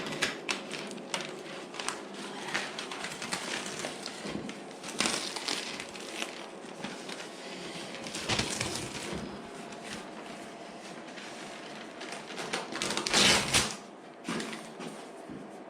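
Masking tape and masking paper being handled and pressed onto a scooter side panel: crackling, crinkling rustles with scattered small clicks, and a louder rasping burst about thirteen seconds in.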